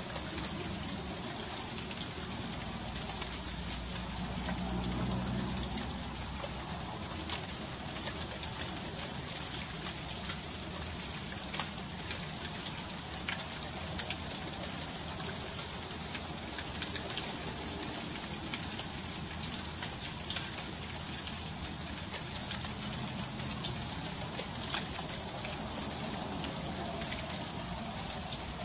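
Freezing rain falling steadily: an even hiss dotted with many small, sharp ticks of drops striking icy surfaces.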